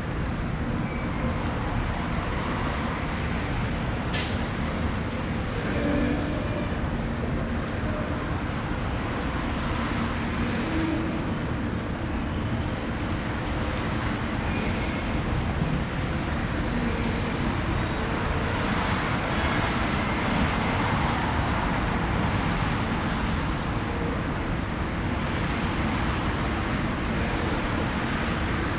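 Steady road traffic noise, with one brief click about four seconds in.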